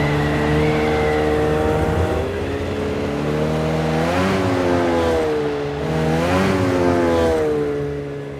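Cartoon truck engine sound effect: a steady engine note that revs up and falls back twice, then fades away.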